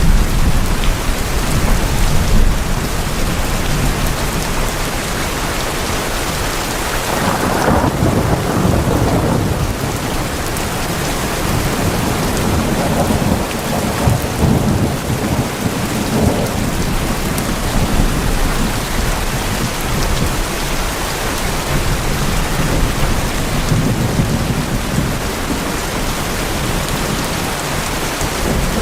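Steady heavy rain drumming on tin roofs, with low rumbles of thunder swelling and fading several times.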